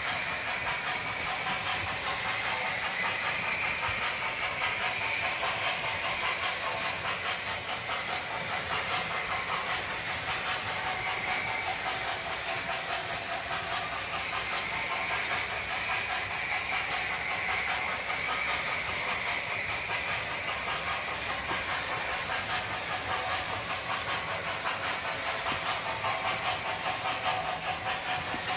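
Model railroad layout running: O gauge model locomotives on the track with steady steam-sound hiss and rail clatter, mixed with the whine of small electric slot car motors rising and falling in pitch.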